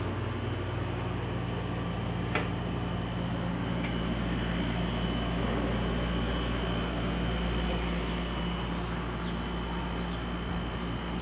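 Steady drone of a vehicle on the move: a low engine hum under road and wind noise, with a single click about two seconds in.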